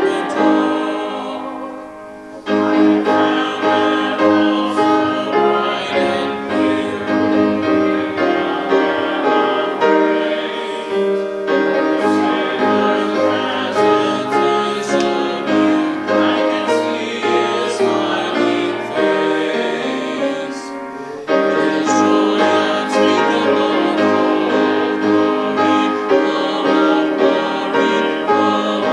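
Piano music: sustained chords and a melody whose notes die away one after another, with short breaks between phrases about two seconds in and again about two-thirds of the way through.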